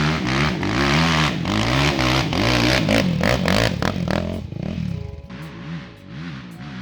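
Small off-road engine revving hard and backing off again and again, with clattering knocks over it. About five seconds in it drops to lighter, quicker throttle blips.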